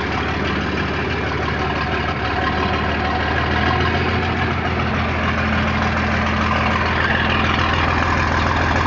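John Deere 4230's six-cylinder diesel idling steadily just after a cold start, purring smoothly.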